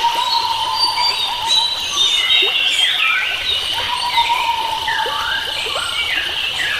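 A chorus of wild forest birds: many chirps and short whistled calls gliding up and down over one another, above a steady high hum that drops out for a while in the middle.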